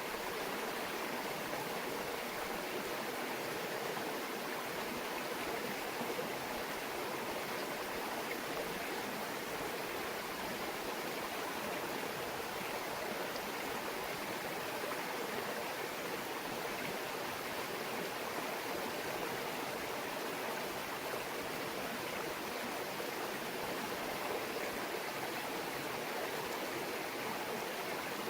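Shallow brook babbling steadily, an even, unbroken murmur of running water.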